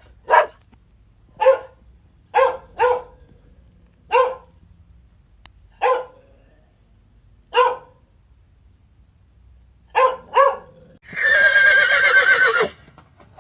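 A dog barks about nine times in short, separate barks, spaced irregularly. Near the end a horse gives one loud, wavering whinny about a second and a half long.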